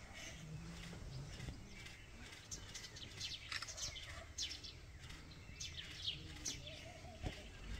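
Faint chirping of small birds: many short, high, quick calls scattered throughout, over a low steady background hum.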